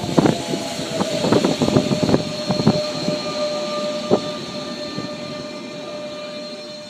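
Electric regional train moving along the track: wheels knock over rail joints in a quick run of clunks during the first three seconds, with one more about four seconds in. A steady whine runs under the knocks, and the whole sound slowly dies away.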